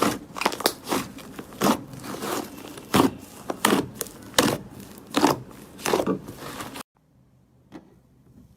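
Slime being played with by hand: a run of sharp pops and clicks, about one or two a second, cutting off abruptly about seven seconds in.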